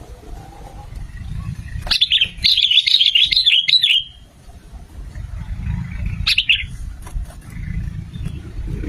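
Sooty-headed bulbul singing: a fluttering, warbling phrase of about two seconds begins about two seconds in, followed by a short call about six seconds in, over a steady low rumble.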